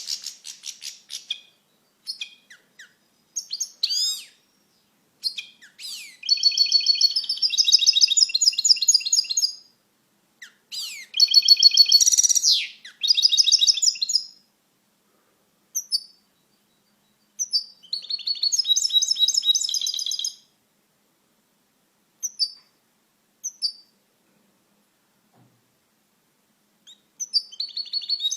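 European goldfinch singing: rapid twittering phrases a few seconds long, separated by short single notes and pauses.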